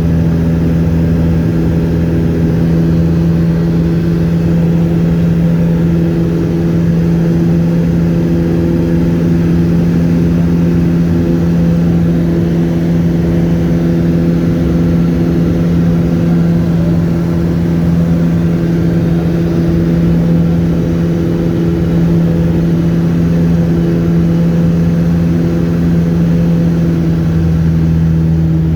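Light aircraft's piston engine and propeller running steadily in flight, heard from on board: a constant loud drone with a strong low hum.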